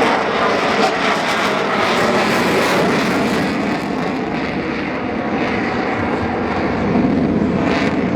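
F-15 fighter jet flying a display pass, its engines a loud, steady rushing noise with no clear tone.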